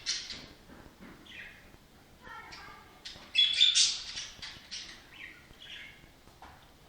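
Budgerigar chirping in short bursts of rapid high calls, with the loudest burst about three and a half seconds in.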